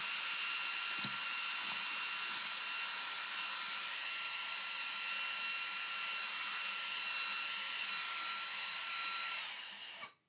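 Xiaomi handheld mini vacuum cleaner running on its stronger second setting: a steady high motor whine over rushing air. Near the end the whine falls in pitch as the motor winds down, and it stops.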